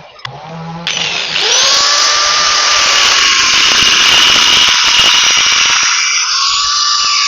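Handheld electric power tool starting about a second in, its whine rising as the motor spins up, then running steadily with a loud hiss as it works the surface; the pitch sags slightly near the end as it is pressed harder.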